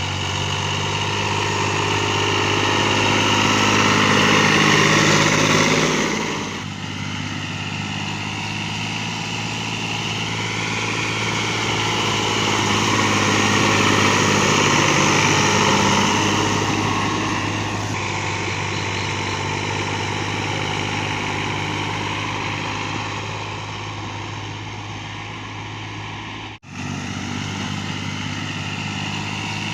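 Fiat tractor's diesel engine running steadily, growing louder and fading back twice. It drops out for an instant near the end.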